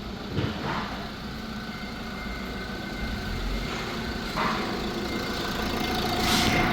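2018 Fiat Ducato's 2.3-litre turbo-diesel engine idling steadily on test, with a few brief bursts of noise over it, the loudest near the end.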